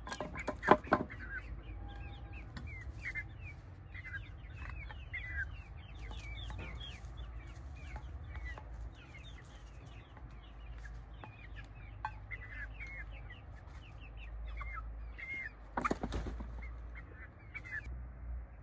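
Small birds chirping, a stream of short falling chirps throughout. Domestic fowl call out loudly twice, once about a second in and again near the end.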